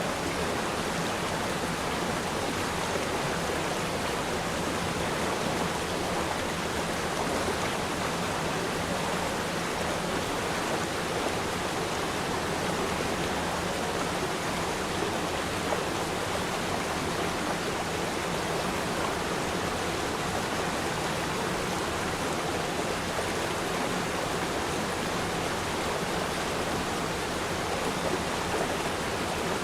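A river stream flowing steadily: an even rush of running water with no breaks or changes.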